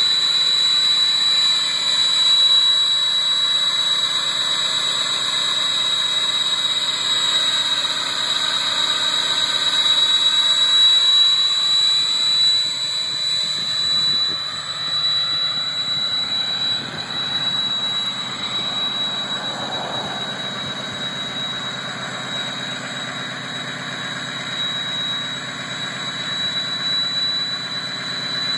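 Turbocharged engine running at high idle, with a steady high-pitched whistle from the upgraded big turbo over the engine noise.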